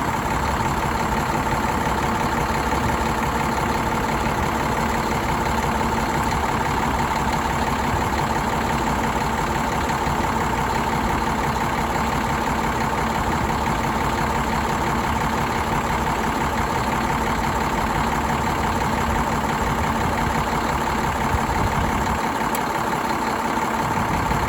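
2006 Cummins ISM inline-six diesel engine running steadily at idle, with a steady high whine over the engine note.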